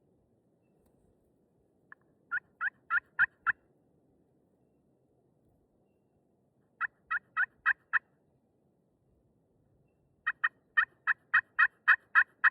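Three runs of turkey yelps, short evenly spaced notes at about three a second. There are five notes, then five more, then a longer run of about nine near the end.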